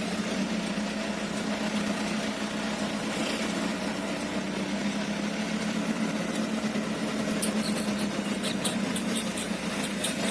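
Hino Dutro truck's diesel engine running at a steady idle-like speed, with a run of light clicks in the last few seconds.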